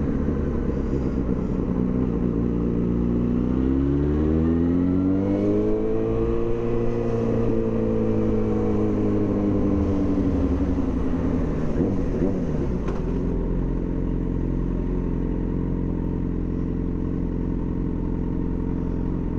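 Yamaha FZ6 Fazer's inline-four engine running through a loud homemade exhaust. It runs steadily at first, then the revs climb from about three seconds in, hold for a few seconds, and fall away after about ten seconds to a steady low note.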